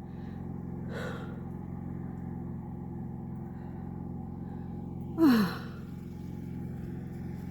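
Steady hum of a generator's engine running, with a person sighing about five seconds in, the sigh falling in pitch, and a faint breath about a second in.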